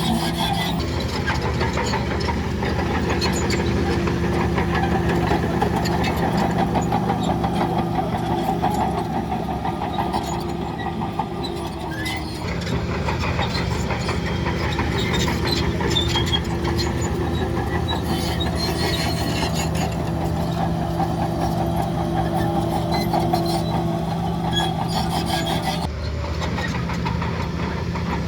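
Heavy diesel engine of earth-moving machinery running steadily under a constant low tone, with rattling and clanking over it. The sound shifts abruptly twice, about halfway through and again near the end.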